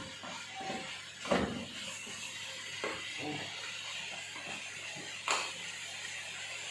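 A few short knocks and clinks of kitchen containers and utensils being handled, the loudest about a second and a half in and another about five seconds in, over a steady faint hiss.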